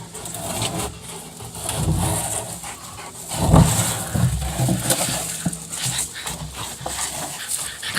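Rottweiler panting hard while playing, with an irregular thud from the barrel it is tossing around about halfway through.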